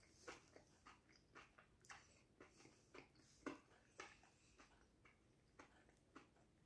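A person chewing a mouthful of crispy fried chicken: faint, irregular crunches of the breading, about two a second.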